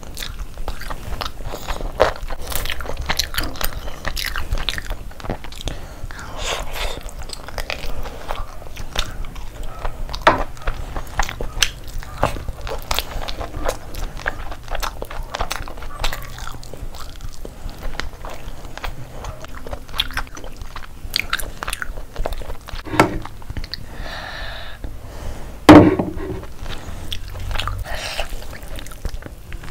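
Close-miked eating: wet chewing, lip smacking and biting on tandoori chicken and biryani rice, a steady run of short clicks and smacks. One much louder sharp sound near the end.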